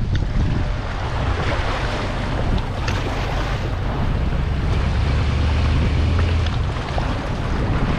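Strong wind buffeting the microphone in a steady low rumble, over choppy lake water splashing in rough, wind-driven waves.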